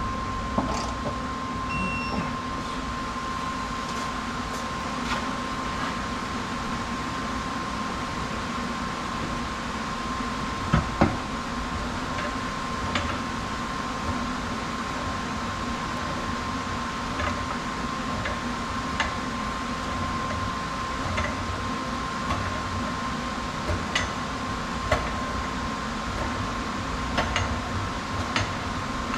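Steady high-pitched hum over a low background drone, with scattered light metallic clicks and two sharper knocks about eleven seconds in, typical of hand tools at work under a car in a workshop.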